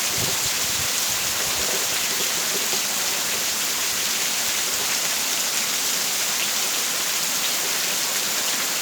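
Heavy rain falling steadily: an even, constant hiss.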